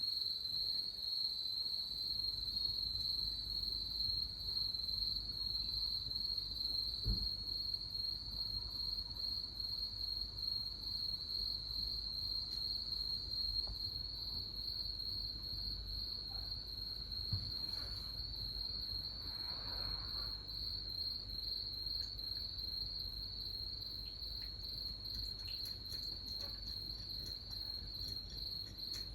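Crickets trilling in a steady, finely pulsing high chirr without pause, with a couple of faint thumps about 7 and 17 seconds in.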